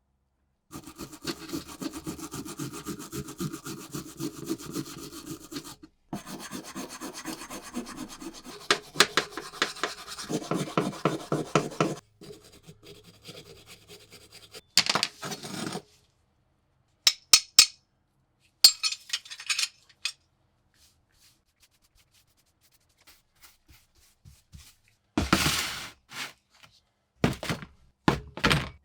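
Hand work on a rusty metal tool in a run of short clips: rapid rubbing and scraping strokes over the rust, then a few short sharp scrapes and clinks.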